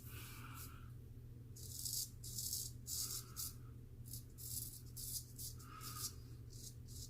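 Straight razor scraping through stubble in a quick series of short strokes, during the final touch-up passes of a wet shave.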